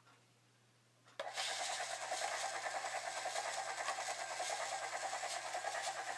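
Toy helicopter switched on with its button: a steady, fast-fluttering whirring rotor sound starts about a second in and keeps running.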